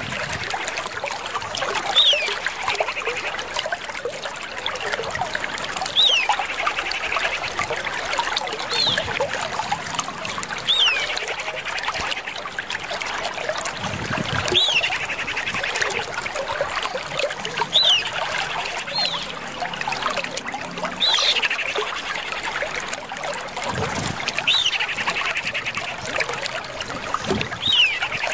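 Common iora calling: a short downward-slurred whistle followed by a buzzy trill, repeated about every three seconds over a steady background hiss.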